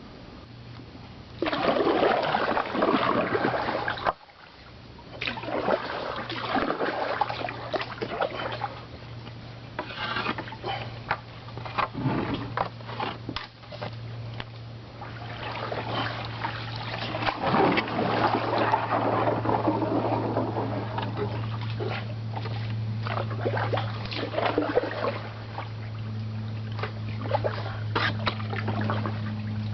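Kayak paddle strokes splashing and dripping water in uneven surges, with small knocks. A steady low hum runs underneath and grows stronger in the second half.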